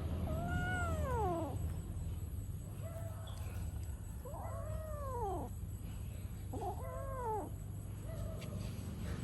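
Domestic cat meowing: three long drawn-out meows, each rising then falling in pitch, with shorter, fainter cries in between, over a steady low rumble.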